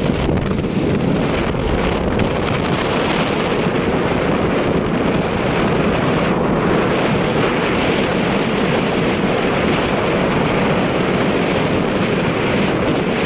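Steady wind buffeting on the microphone of a moving motorcycle, with the motorcycle's running and road noise underneath.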